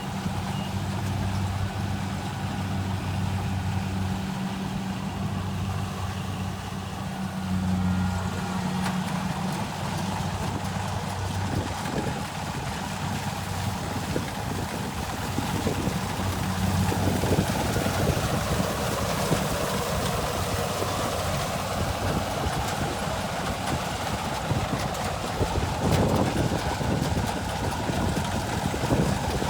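Kubota combine harvester's diesel engine running steadily with a low hum. About halfway through it grows louder and rougher, with more clatter mixed in.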